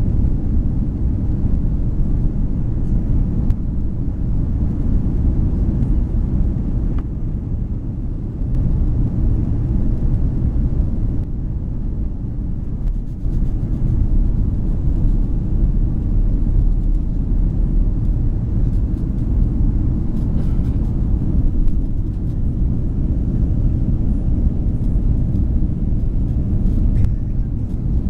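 Airbus A330-200 jet cabin noise: a steady low rumble from the Rolls-Royce Trent 700 engines and airframe, heard inside the passenger cabin.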